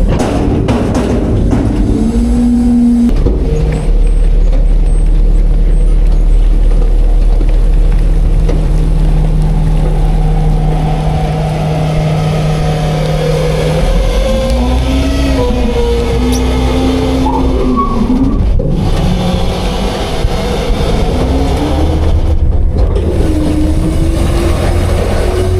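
Autocar-Heil front-load garbage truck's engine running loud and steady. From about the middle on its pitch rises and falls as it revs.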